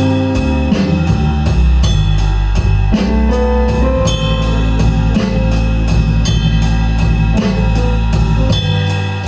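Blues-rock band playing live with no singing: a drum kit keeps a steady beat, about three to four strikes a second, under guitar and a steady low bass line.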